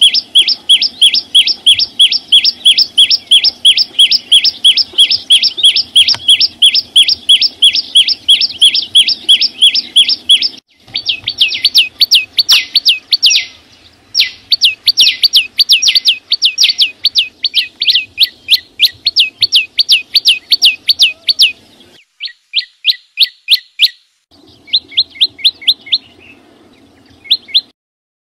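Small green songbird ('chim sâu xanh') singing a long run of sharp, rapidly repeated identical notes, about five a second, broken by a few short pauses.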